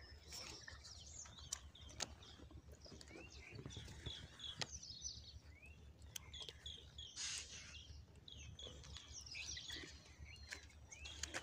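Faint bird chirping: many short high chirps and calls, with a few soft clicks and a brief rustle about seven seconds in.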